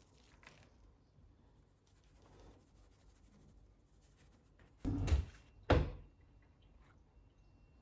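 Quiet kitchen room tone, broken about five seconds in by two short, loud clatters of kitchen handling, less than a second apart.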